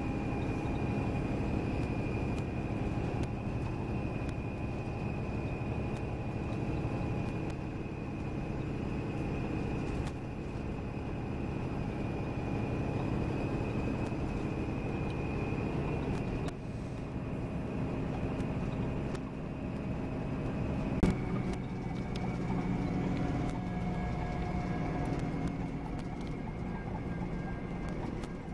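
Volvo B9R coach with Plaxton Elite bodywork running on the road: a steady drone of engine and road noise with a thin, high, steady tone above it. The drone shifts about two-thirds of the way through, and there is a single sharp knock about 21 seconds in.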